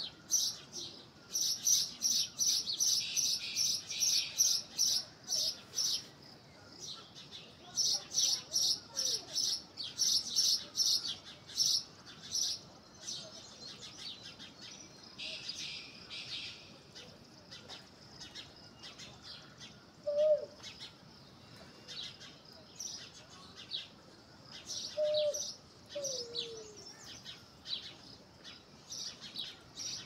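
Songbird chirping: runs of short, high, quickly repeated chirps, about three a second, in bursts lasting several seconds. In the second half come a few lower, falling whistled notes.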